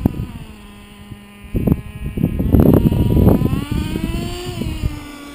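Traxxas T-Maxx 2.5 two-stroke nitro engine running at low throttle during its break-in, a steady high buzz that rises a little in pitch near the end and then drops back. Bursts of low rumbling noise cover it in the middle.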